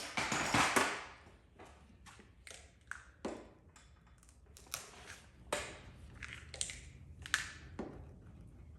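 Paintless dent repair glue-pull tools being handled on a vehicle panel: a loud scraping crunch in the first second, then a string of light clicks and taps spaced about half a second to a second apart.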